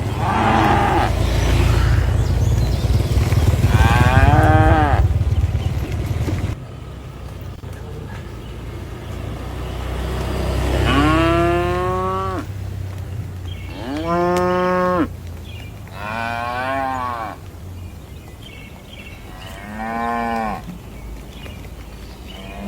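Cows mooing in a pasture: about six long calls at varying pitches, each rising and then falling, with pauses of a few seconds between them. A low rumble lies under the first few calls and cuts off abruptly about six seconds in.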